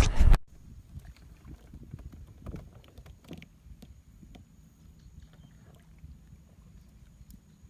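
A loud rush that cuts off suddenly about half a second in, then faint scattered clicks and light knocks, like gear handled on a kayak, over a low hum with a thin steady high whine.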